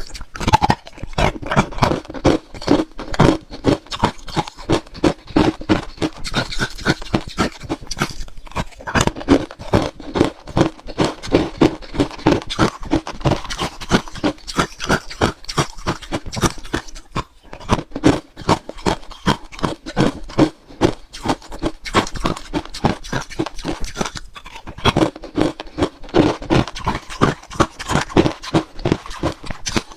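Frozen matcha ice being bitten and crunched between the teeth: rapid crackling crunches, several a second, with brief pauses about 8, 17 and 24 seconds in.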